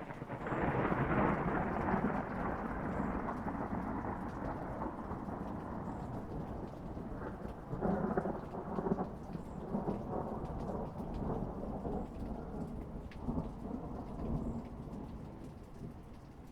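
A long peal of thunder breaking sharply at the start and rumbling on over steady rain, with louder swells about eight seconds in and again near the end before it fades.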